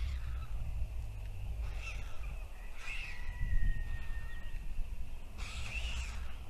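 Several short, harsh bird calls, the longest near the end, over a low wind rumble on the microphone; a thin whistle sounds for about two seconds in the middle.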